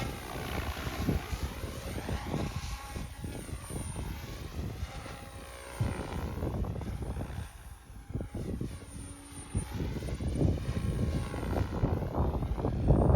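Omphobby M4 Max radio-controlled helicopter flying, its rotor and motor whine rising and falling in pitch as it makes passes, with wind buffeting the microphone, which grows heavier near the end.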